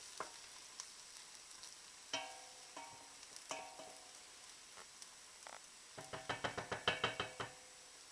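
Shallots and mushrooms frying in butter in a pan, a faint steady sizzle, with a utensil clinking against the pan a few times and then a quick run of clanks near the end as the pan is stirred.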